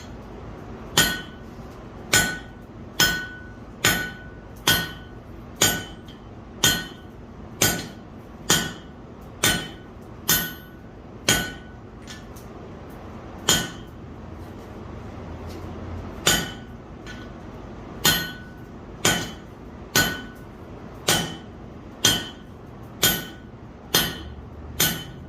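Forging hammer striking steel on an anvil, about one blow a second, each with a short metallic ring. The rhythm pauses twice around the middle before the blows resume.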